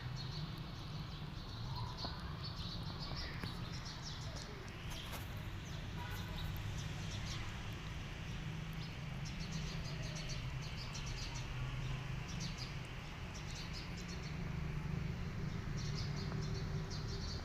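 Kittens chewing and smacking as they eat, a scatter of quick wet clicks in clusters, over a steady low hum, with a few faint high chirps.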